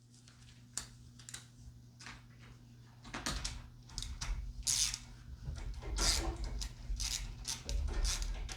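Metal exhaust parts knocking, clicking and scraping as a turbo downpipe is handled and test-fitted against the frame. The sounds are sparse at first and get busier and louder from about three seconds in, over a steady low hum.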